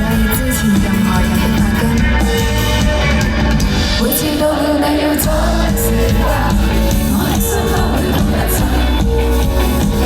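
Live indie-pop band performance in a large hall: a full band with guitar, bass and drums plays, with a sung vocal.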